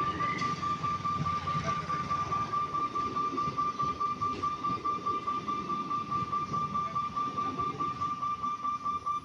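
Suburban electric local train passing, its wheels clattering rhythmically over the rail joints, with a steady high-pitched tone sounding unbroken over it.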